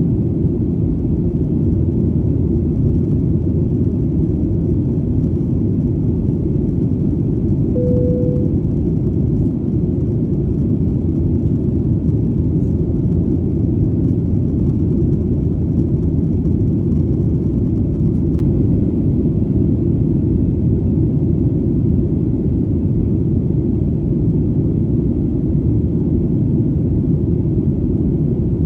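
Airplane engine noise as a steady low rumble, unchanging throughout. A brief tone sounds about eight seconds in.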